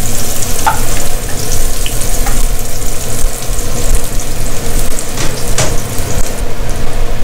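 Sliced garlic, shallots and ginger sizzling in hot oil in an aluminium pot, frying until fragrant. A wooden spatula stirs through them at the start, with a few light clicks.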